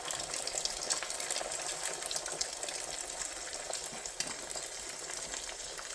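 Eggs, onion and tomato frying in butter and oil in a pan on a woodstove: a steady sizzle with fine crackles.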